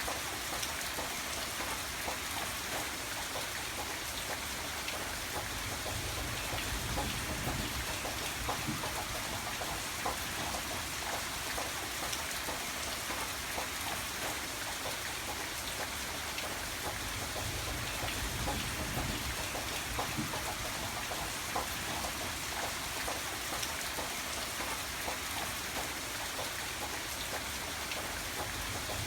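Steady rain falling, with individual drops pattering on a surface and a low rumble underneath that swells slightly a couple of times.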